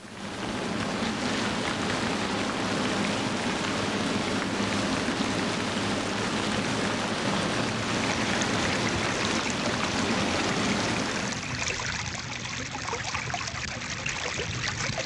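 Steady rush of running water, like a flowing stream, a nature-sound interlude; it turns a little quieter and thinner after about twelve seconds.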